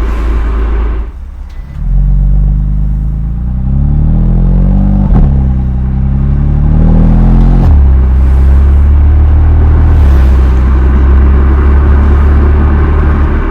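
BMW M2 Competition's twin-turbo inline-six through the stock exhaust: after a brief let-off about a second in, it pulls with a rising pitch, drops a step once partway through as if shifting up, climbs again, then settles into a steady low drone for the rest. The recording is loud and slightly distorted from overdriving the microphone.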